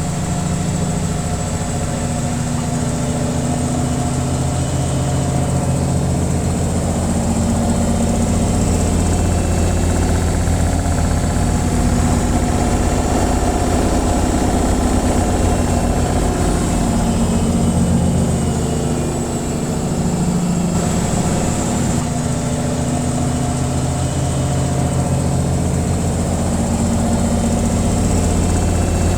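Washing machine on its spin cycle: a steady deep hum and vibration from the spinning drum, with a faint high whine above it. It eases off briefly about two-thirds of the way through.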